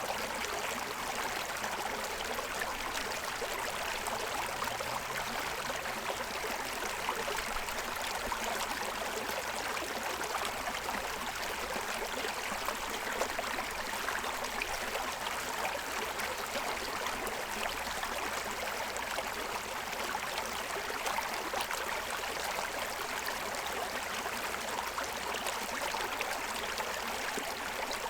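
Forest stream running over the stones of its bed, a steady, even rush and babble of water.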